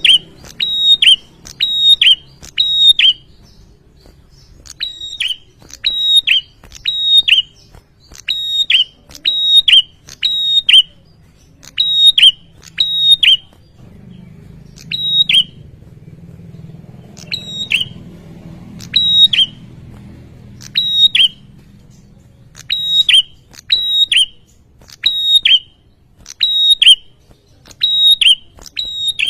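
Prenjak calling: loud, sharp, high notes repeated about two a second in runs of three to five, with pauses between the runs and a longer break in the middle.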